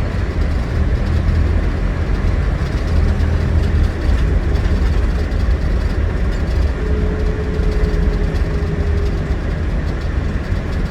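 Scania Irizar Century coach on the move, its 9.3-litre Scania DC09 diesel running steadily with a deep low rumble under road noise. A faint steady whine comes in for about two seconds near the end.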